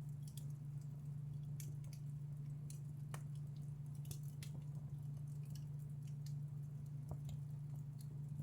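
Wood fire in a fireplace crackling, with irregular sharp pops and snaps, a few louder ones about three and four and a half seconds in. A steady low hum runs underneath.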